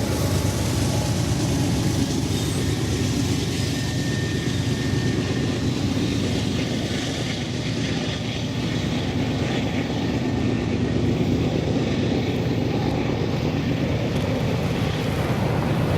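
Loaded freight train passing: a steady, loud low rumble of rolling cars and diesel locomotive engines that holds level throughout.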